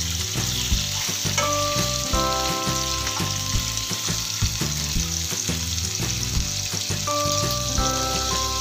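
Boiled mutton pieces sizzling steadily as they fry in a little oil in a nonstick pan to brown them. A metal spoon scrapes and taps against the pan as the pieces are turned.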